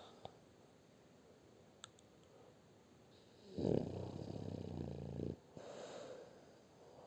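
French bulldog snoring: one loud, rattling snore lasting about two seconds, starting about halfway through, followed by a softer breath.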